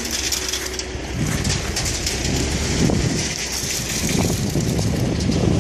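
Wind buffeting the microphone in irregular gusts, with crunching footsteps on loose excavated dirt and gravel. A faint low steady tone fades out about a second in.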